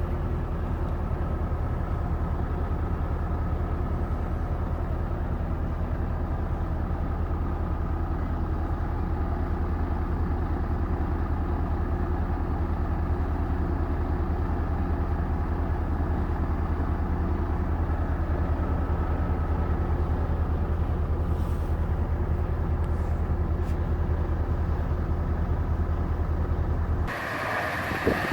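Scania 580 S V8 diesel engine running at a steady, even pitch. About a second before the end the sound cuts abruptly to a different, hissier noise with a single click.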